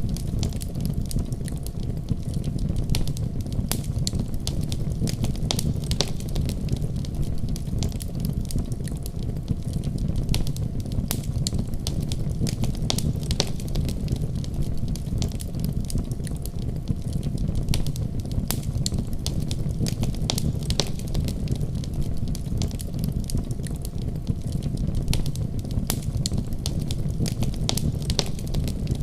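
Fire crackling in a fireplace: a steady low rumble of the flames with frequent sharp snaps and pops scattered throughout.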